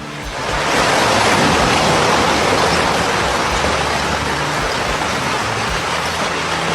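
Rushing floodwater: a loud, steady rushing noise that swells in about half a second in and holds.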